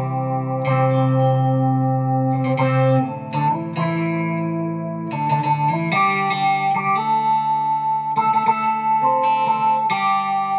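Electric guitar played through a BOSS SY-200 synthesizer pedal, sounding as sustained polyphonic synth chords that change every second or two.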